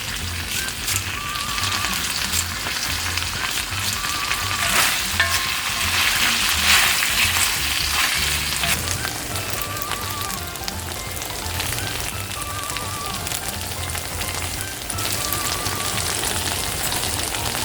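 Teriyaki-marinated pork neck with sliced onion and green onion sizzling steadily in a frying pan, loudest about six to seven seconds in.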